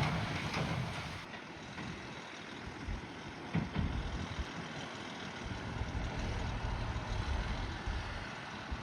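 Heavy machine's diesel engine running with a low, uneven rumble, and a single thump about three and a half seconds in.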